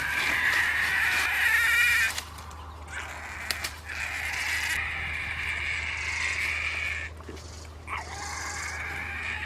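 Pig squealing in three long, high-pitched, wavering squeals: one at the start lasting about two seconds, another from about four seconds in, and a third beginning near the end.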